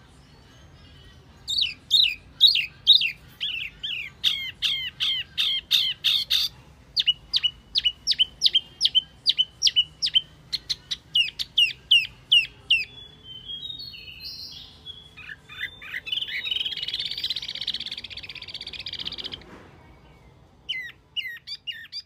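Lure-call recording of the wambi mini bird: a fast run of sharp chirps, then evenly repeated down-slurred whistled notes about two a second, then a harsh rasping chatter. After a short pause the chirping starts again near the end.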